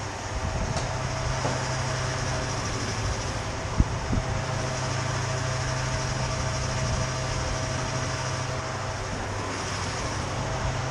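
Motorcycle engine running steadily under a broad rush of wind and road noise, with a single sharp knock about four seconds in.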